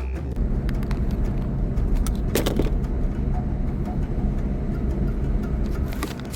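Car engine and road noise from inside a moving vehicle, a steady low rumble, with a brief clatter about two and a half seconds in.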